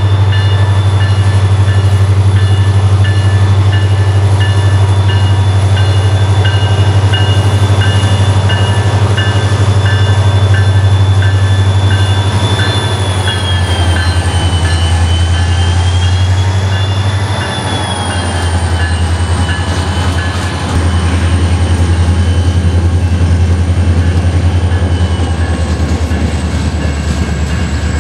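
Train running, with a steady low rumble and high squealing tones that waver midway through, over a light regular beat.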